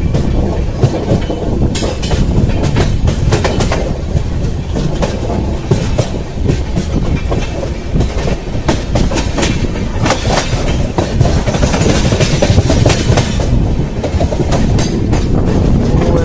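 Passenger train running, heard from an open coach doorway: a steady rumble from the wheels with irregular clacking as they cross rail joints and points.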